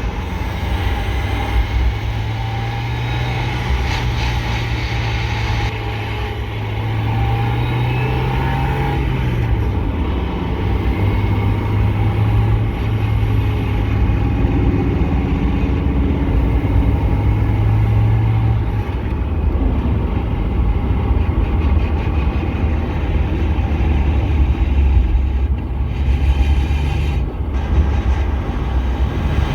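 1993 Mazda Miata's 1.6-litre four-cylinder engine and drivetrain, heard from inside the cabin while driving. The engine note holds steady, drops about nine seconds in and again near eighteen seconds, and a heavier low rumble follows. The car is being recorded for a grinding noise from the transmission or driveshaft area, ahead of the shifter, that comes on deceleration. The owner suspects the driveshaft, power plant frame or clutch.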